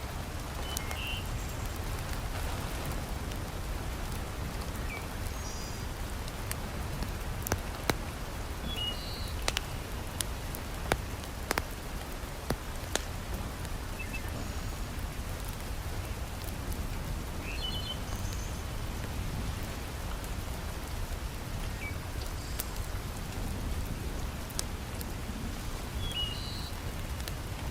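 Heavy rain falling steadily, with scattered sharp crackles and pops from a wood fire in a fireplace, bunched mostly in the middle. A few brief high chirps come now and then.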